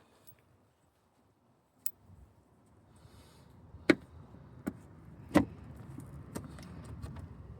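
Several sharp clicks and knocks from bolts and hand tools being handled, the loudest about halfway through, over a low rumble that builds from about a third of the way in.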